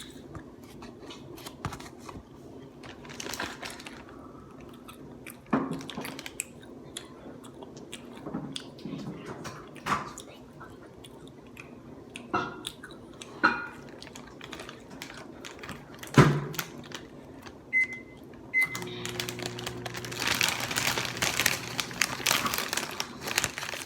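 Eating and handling food: scattered clicks and knocks of mouth and utensil sounds. About two-thirds of the way through, a steady rustling hiss with a low hum begins and runs on.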